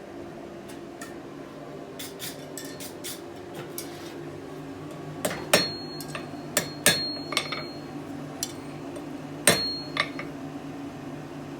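Hammer working a hot steel fire-steel handle around a bending fork: a few light taps, then sharper metal-on-metal strikes in the second half, some leaving a short high ring, over a steady low hum.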